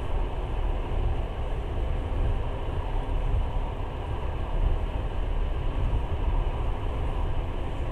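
Passenger train running along the line, heard from aboard: a steady low rumble of wheels on rails with no breaks.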